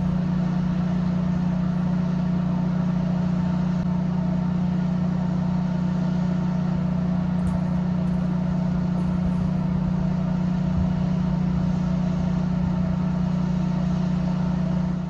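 An engine running steadily at one constant speed, with an even, unchanging drone.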